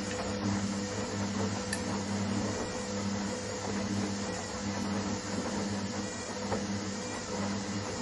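Washing machine running: a steady low motor hum that swells and dips about once a second, over a constant rushing noise.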